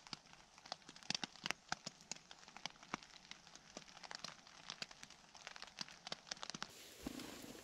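Raindrops tapping irregularly on the fly of a Lanshan 1 tent, heard from inside, several sharp taps a second. A soft rustle rises near the end.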